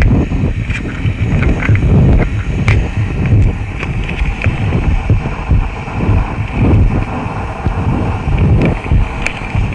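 Experimental noise music: a dense, churning low rumble, loud throughout, with scattered sharp clicks and crackles over it.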